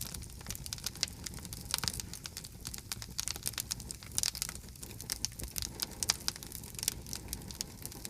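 Campfire of split firewood burning, with irregular sharp crackles and pops over a low steady rumble of the flames.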